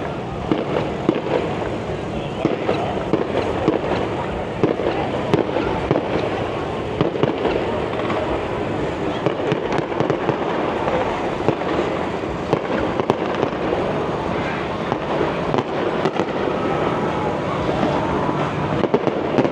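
Fireworks display going off in a dense, unbroken run of bangs and crackles, with voices from the fair crowd underneath.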